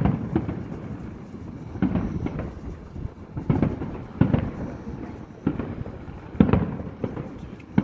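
Fireworks display: aerial shells bursting in a series of sudden booms about every one to two seconds, with a low rumble between them.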